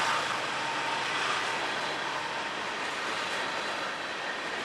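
Freight train of covered hopper cars rolling past: a steady rush of steel wheels on rail, easing slightly toward the end.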